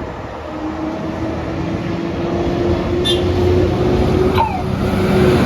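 Double-decker bus on the move, a steady whine over the engine's low hum that grows louder toward the end, with a short high chirp about three seconds in and another about four seconds in.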